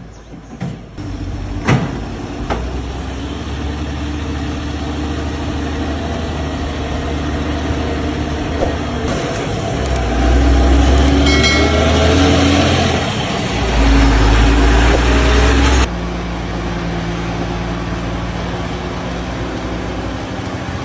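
Heavy truck engine running under load with steady road noise, growing louder for a few seconds twice in the middle, with a sharp knock about two seconds in. The sound changes abruptly near the end.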